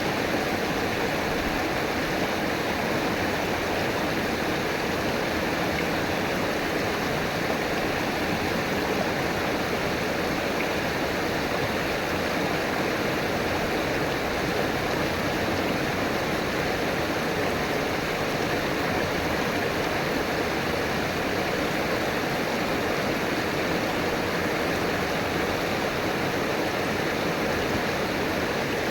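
River water rushing and babbling over rocks in a steady, even flow.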